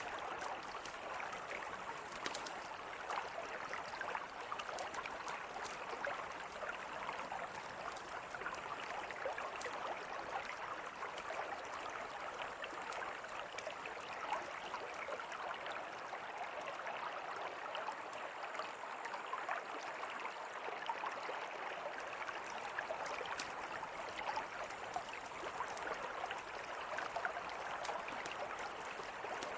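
Mountain river flowing in a steady rush, with a campfire crackling over it in scattered small pops.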